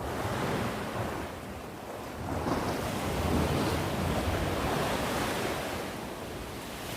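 Sea waves breaking and washing on the shore, the surf swelling about two and a half seconds in and easing off toward the end, with wind noise on the microphone.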